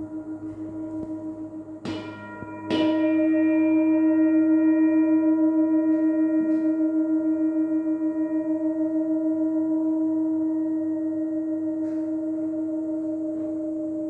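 Tibetan singing bowls ringing, struck twice in quick succession about two seconds in. The long tones hang on with a steady pulsing wobble and slowly fade.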